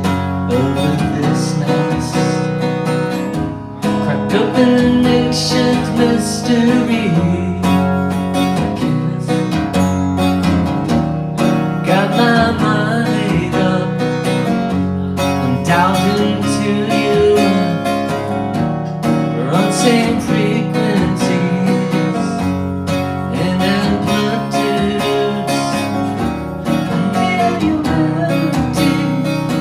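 A band playing live, led by strummed acoustic guitar over a steady bass line.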